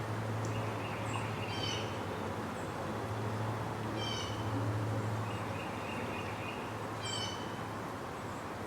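A bird calling three times, about three seconds apart, each a short mewing call, with a few thinner held notes between them, over a steady low hum.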